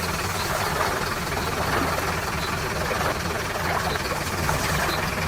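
A vehicle engine running steadily with an even, low rumble.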